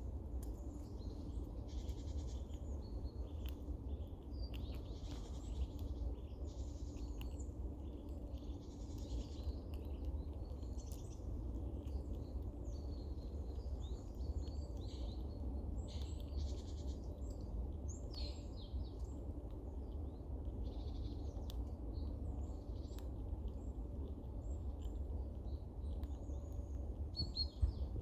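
Eurasian red squirrel clucking and squeaking in short, repeated high calls, over a steady low rumble. The calls are a female's food-defence calls warning off other squirrels nearby.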